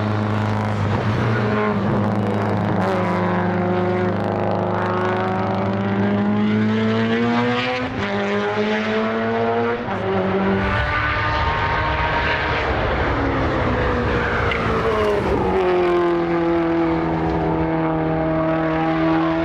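Time attack race car engines at full throttle on the circuit, their pitch climbing and dropping several times as they accelerate, shift and pass, over a steady low drone.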